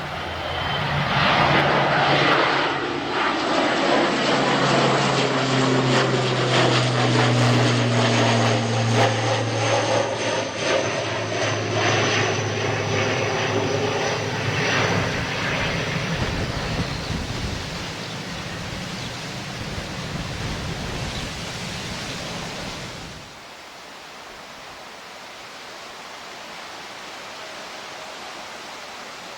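Aircraft engines passing close by, loud at first, with the pitch of the engine tones sweeping downward as it goes past, then fading away. About three quarters of the way through the sound drops off abruptly, leaving a faint steady hiss.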